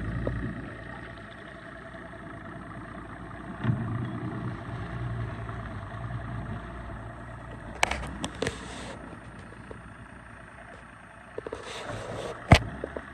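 Low engine rumble with a few scattered knocks and one sharp knock near the end.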